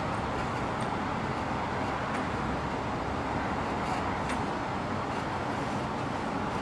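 Steady background noise with a few faint light clicks, about two and four seconds in.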